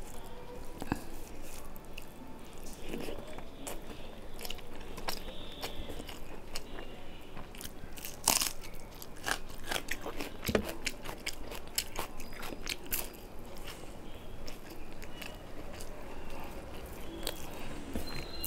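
Close-up eating sounds: chewing and crunching mouthfuls with wet clicks, irregular throughout, with a louder crunch about eight seconds in. Fingers mixing rice on the plate.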